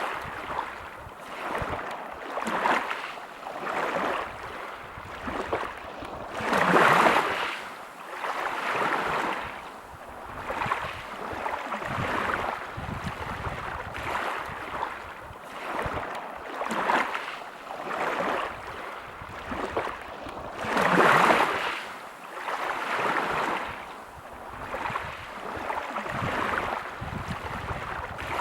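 Sea waves breaking and washing over a pebble beach, the wash rising and falling every second or two. Two bigger waves break, about a quarter of the way in and again about three quarters through.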